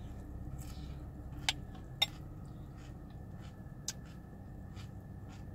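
Chewing of a mouthful of chocolate cereal with milk, the mouth closed, with three sharp clicks about a second and a half, two, and four seconds in, over a low steady hum.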